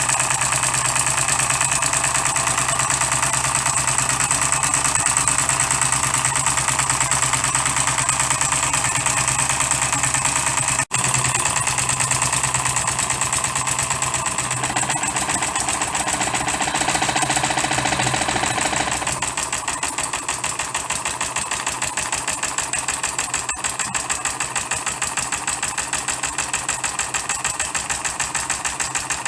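Custom-built 12cc direct-injection model diesel engine running with a rapid, even firing beat. A little past the middle it turns slightly quieter and its low hum drops away, with a very brief dropout earlier on.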